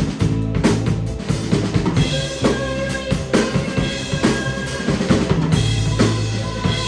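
Live rock band playing, the drum kit up front with kick and snare hits driving a steady beat over held pitched notes from the other instruments.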